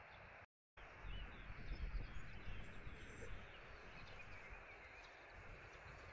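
Outdoor ambience: a steady hiss with low rumbling gusts, cut by a brief total dropout about half a second in, and a few faint bird chirps.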